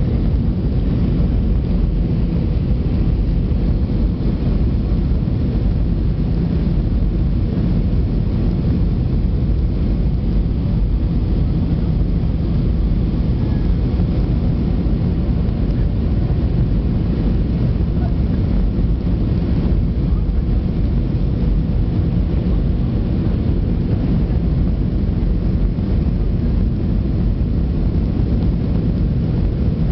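Steady rumble of an Airbus A320 in flight, engine and airflow noise with a faint steady hum, heard inside the cabin.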